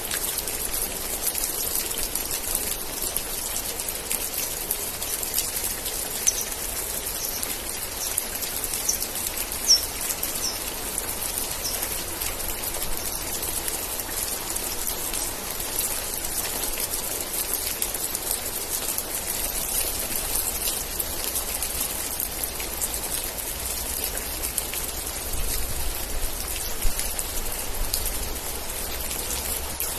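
Steady rain, with many individual drops ticking close by. Between about 6 and 12 seconds in comes a run of about seven short, high chirps.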